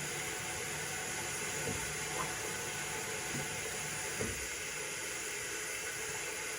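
Steady hiss of background noise, with a few faint short sounds about two seconds and four seconds in.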